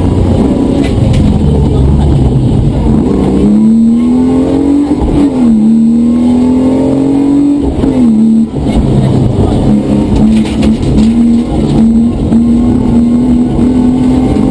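Rally car's engine heard from inside the cabin, accelerating hard up through the gears over road and tyre rumble. Its pitch climbs, drops at a gear change about five seconds in, climbs again and drops at another shift about eight seconds in, then runs at a steadier pitch with brief dips.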